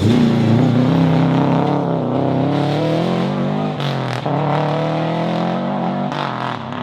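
Rally car engine revving hard under acceleration, its pitch climbing, breaking briefly about four seconds in, then climbing again.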